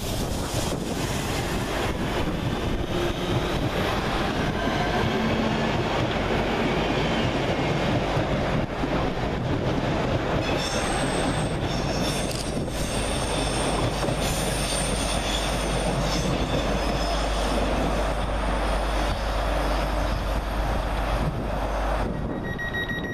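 Two coupled Class 323 electric multiple units departing and running past on the rails in a steady, dense rumble. High ringing tones join in about ten seconds in, as the rear of the train goes by. The noise drops away near the end as the train clears.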